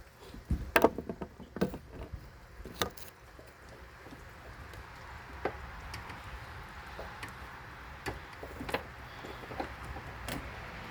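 Irregular knocks and clunks of hard objects being handled, several loud ones in the first three seconds, then fainter scattered ticks over a steady low background noise.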